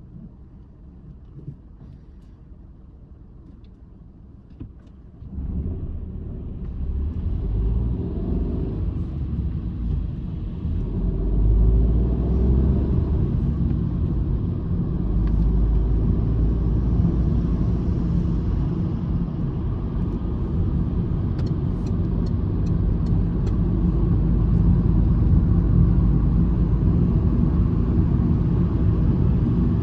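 Citroen C-Elysee's 1.2-litre three-cylinder EB2 PureTech petrol engine, heard from inside the cabin: a quiet idle for about five seconds, then the car pulls away and the engine note and road rumble rise sharply through the gears, settling into steady running at speed.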